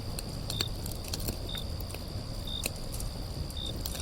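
Nature ambience: a short high chirp repeating about once a second over a steady high-pitched insect trill, with a low rushing background and scattered faint clicks.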